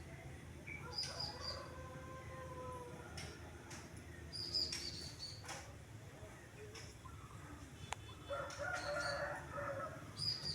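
A rooster crowing, one long crow near the end and a fainter one early on, while a small bird gives short high chirps every second or two. A steady low hum runs underneath.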